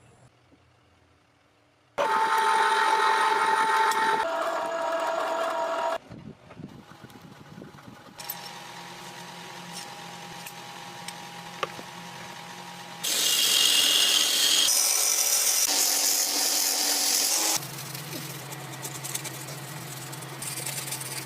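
Power tools running in a string of short cut-together clips, each starting and stopping abruptly with a steady machine tone. It is loudest from about two to six seconds in and again from about thirteen to seventeen seconds in.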